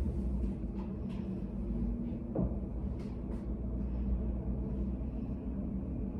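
Study cafe room tone: a steady low hum, with a few faint clicks and a brief short squeak about two and a half seconds in.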